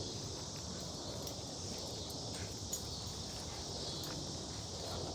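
Quiet backyard ambience: a steady faint hiss, with a couple of faint ticks near the middle.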